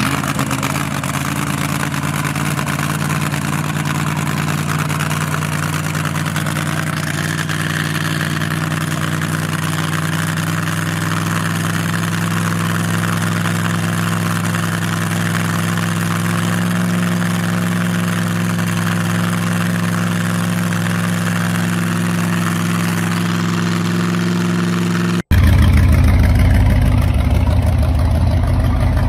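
Supercharged race engine of a nostalgia drag car idling steadily. Near the end, after a sudden cut, a louder, choppier idle from a rat rod's engine takes over.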